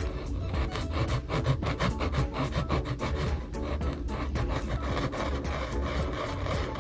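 A drawing tool scratching and rubbing across sketchbook paper in quick repeated strokes, with background music.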